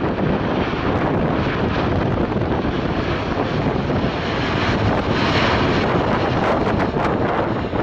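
Jet airliner engine noise, steady, mixed with strong wind buffeting the microphone.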